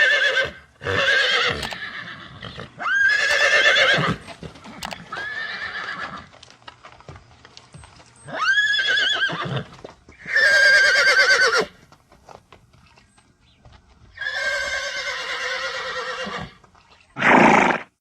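A horse whinnying over and over, about eight neighs with a shaky, quavering pitch and short pauses between them.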